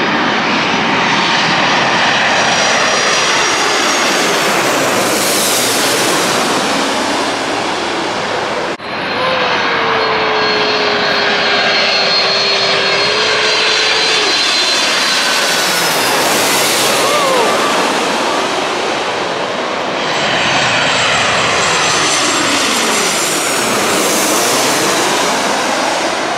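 Airliners on final approach passing low overhead, three in turn, each a loud engine noise with a high whine that falls in pitch as the plane goes by. The sound breaks off abruptly about nine seconds in before the next pass.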